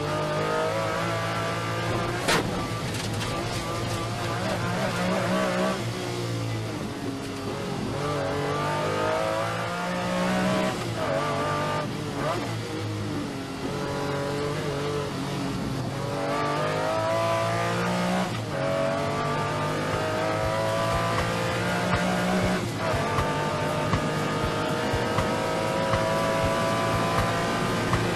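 Lamborghini Diablo's V12 engine accelerating hard through the gears. The pitch climbs, then drops at each upshift, several times over.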